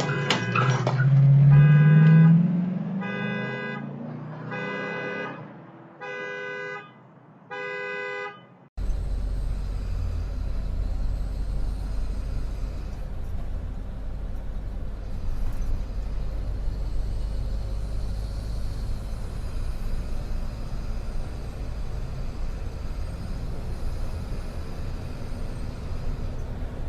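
A car horn honks in about five held blasts, with an engine revving up near the start. After a sudden cut, the steady low rumble of a car driving, with engine and road noise.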